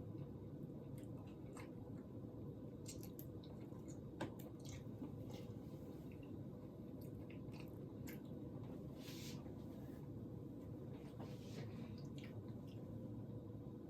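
Faint close-up chewing with wet, squishy mouth clicks and smacks, scattered irregularly over a steady low hum.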